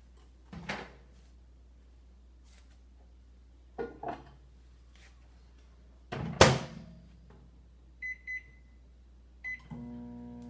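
Microwave oven being worked: a few clunks of the door and dish, the loudest about six and a half seconds in. Then come two short keypad beeps, one more beep, and near the end the oven starts running with a steady hum.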